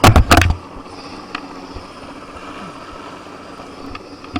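A crane helicopter running at a steady drone, with a very loud burst of knocks lasting about half a second at the very start.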